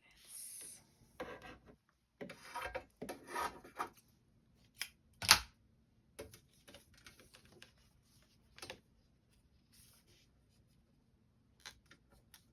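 Fabric and foundation paper being handled on a work table: short rustles, small taps and clicks, with one sharp click about five seconds in.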